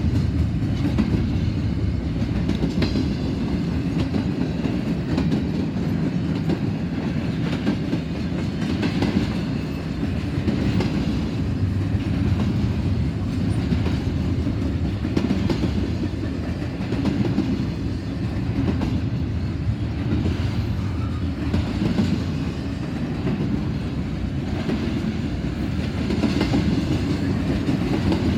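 Cars of a long, heavy double-stack intermodal freight train rolling past: a steady low rumble with the wheels clicking and clacking over the track.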